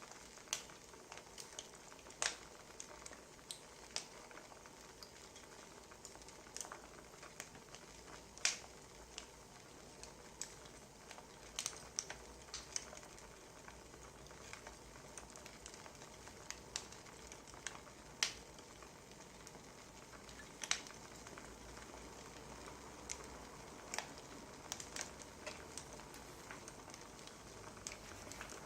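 Wood fire crackling: irregular sharp pops and snaps, a second or two apart, over a faint steady hiss.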